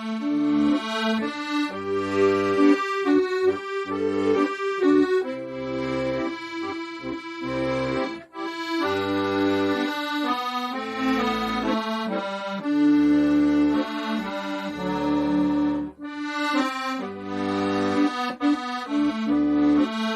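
Solo accordion playing a Korean trot melody: sustained right-hand notes carry the tune while low left-hand bass notes sound beneath it about once a second.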